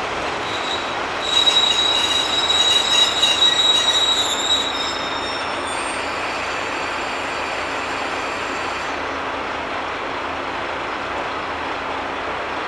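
Diesel railcar pulling into a station and braking to a stop: a high wheel-and-brake squeal for about three seconds from a second in, then the steady running of the train as it slows.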